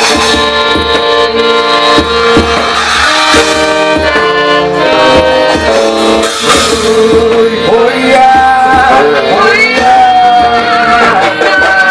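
Accordion-led forró music with a steady beat, the kind played for quadrilha dancing at a festa junina.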